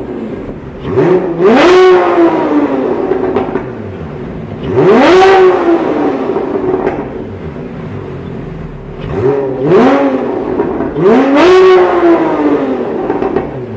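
Porsche 911 Carrera 4 GTS flat-six through a MufflerDesign aftermarket exhaust, blipped from idle about five times: each rev climbs sharply in pitch and falls back to a steady idle, the biggest ones near the start, in the middle and near the end.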